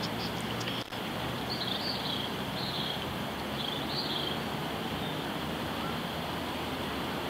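Steady outdoor background hiss with a few short high bird chirps between about one and a half and four and a half seconds in.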